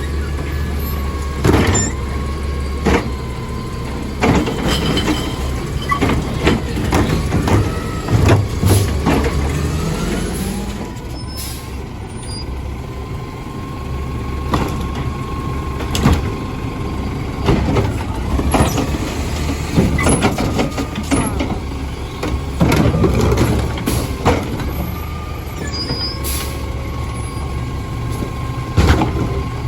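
Garbage truck at work: its diesel engine runs steadily under a constant mechanical whine, broken by many sharp clanks and bangs and hisses of the air brakes.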